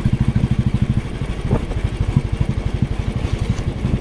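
Motorcycle engine running under way, a rapid, steady low pulsing beat, easing slightly for a couple of seconds mid-way before picking up again.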